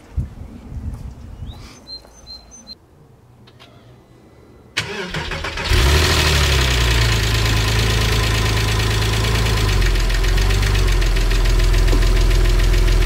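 Porsche 996's flat-six engine cranks briefly about five seconds in, catches and runs at a steady idle that drops a little a few seconds later. Before it, a few short bird chirps and towel rustling.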